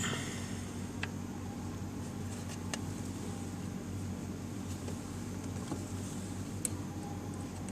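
A few faint, isolated clicks and taps, typical of hand tools and small parts being handled during a repair, over a steady low hum.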